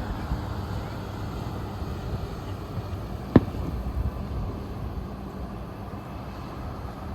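A single sharp firework bang about three and a half seconds in, over a steady low rumble of outdoor background noise.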